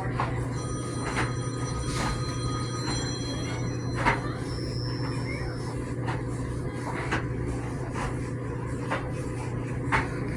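GE Spacemaker laundry center's dryer running: a steady low hum, with light knocks every second or two from the tumbling drum.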